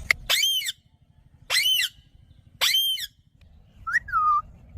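Indian ringneck parakeet giving three loud, shrill screeching calls about a second apart, then a softer falling whistle near the end.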